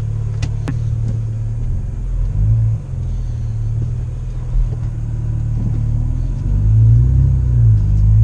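Straight-piped BMW E90 exhaust idling with a steady low rumble, swelling briefly twice. A couple of sharp clicks come just under a second in.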